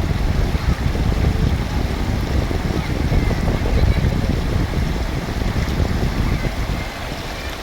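Mountain river water rushing, loud and steady, with a heavy low rumble of wind buffeting the microphone.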